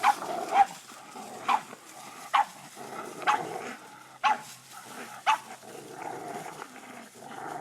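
Dog barking and growling while playing with a rope: about seven short sharp barks, roughly one a second, with a rough growl between them.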